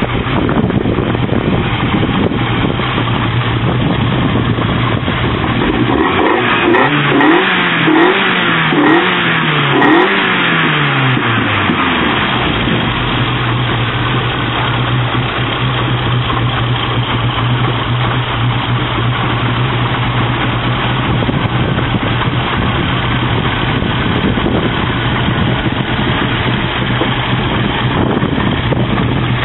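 Tuned Opel Kadett E GSI four-cylinder engine with individual throttle bodies and a sport exhaust idling steadily. About a quarter of the way in, a run of about six quick throttle blips sends the revs up and down before it settles back to idle.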